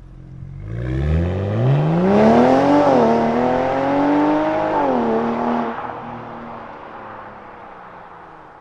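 BMW X5 45e's turbocharged 3.0-litre straight-six, with an OPF-delete midpipe and valved catback exhaust, accelerating hard: the exhaust note climbs steadily, dips once about three seconds in at an upshift, climbs again, then drops about five seconds in and fades away.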